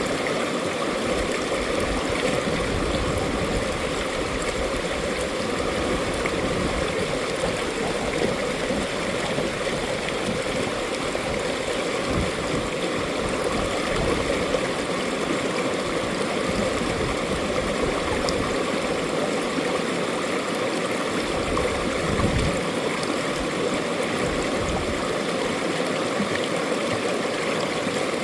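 Mountain valley stream flowing steadily, a continuous rush and gurgle of water.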